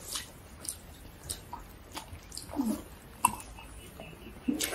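Soft eating sounds of people eating rice and curry by hand: chewing and lip smacks, heard as scattered short clicks. There is a brief low murmur about two and a half seconds in.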